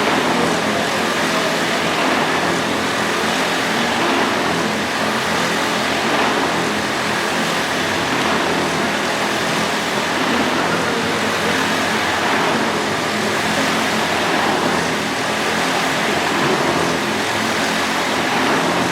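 Motorcycle engine running hard and continuously as the bike circles the vertical wooden wall of a Wall of Death drum, the level swelling slightly as it laps.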